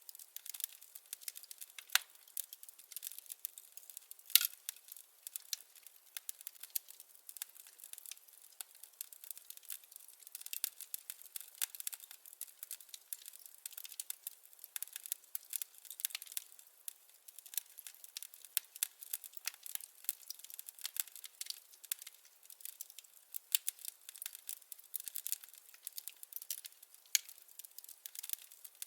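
Wood fire crackling: a dense run of small irregular snaps and pops, with a few sharper, louder pops about two and four seconds in.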